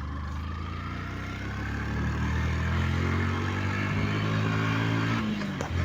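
A motor vehicle's engine running steadily, growing a little louder about two seconds in and dropping briefly near the end.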